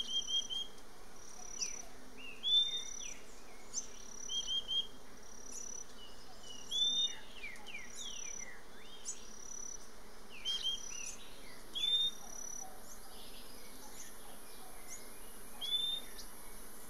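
Euphonia (tangará) fledgling begging: short high calls repeated every second or so, some in quick groups of three, as a parent comes to feed it. A faint high insect hiss comes in about two-thirds of the way through.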